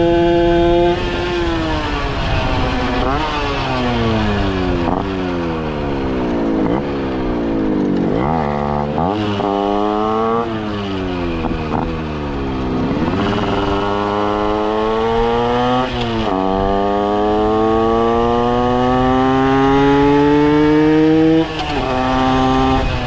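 Water-cooled 80cc Minarelli AM6 two-stroke moped engine with a custom Kreidler exhaust, ridden through the gears. Over the first eight seconds or so the revs wind down with a few short blips. The revs then climb in repeated rising runs, each ending in a sudden drop as it shifts up, and finish with a long climb that stops abruptly near the end.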